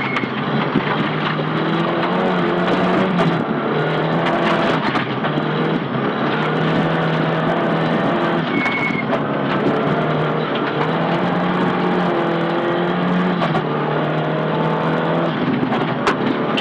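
Nissan Silvia S15 rally car's engine heard from inside the car, driven hard at speed along a stage. The engine note holds, then drops away briefly several times as the driver shifts or lifts, under a constant hiss of tyre and road noise.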